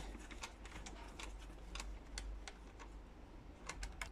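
Irregular light clicks and ticks of a screwdriver working a small screw out of a steam iron's plastic housing, several a second, over a steady low hum.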